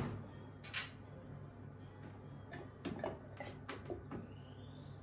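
Light clicks and knocks of objects being handled, in a quick cluster a little past the middle, over a low steady hum, with a brief hiss about a second in and a faint rising tone near the end.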